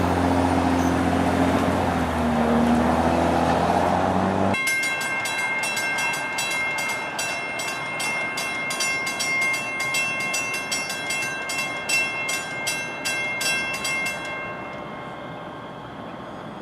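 A passing train's low engine drone, cut off suddenly a few seconds in, followed by a bell ringing rapidly at about three strikes a second with a steady ringing tone, which stops shortly before the end.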